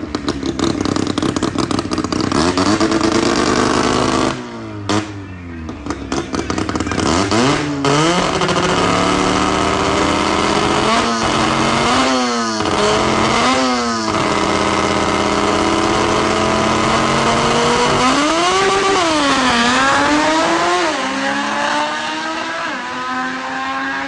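Naturally aspirated rotary engine of a drag car revving, its pitch rising and falling several times, with a stuttering drop about five seconds in, quick throttle blips around the middle and bigger sweeps near the end.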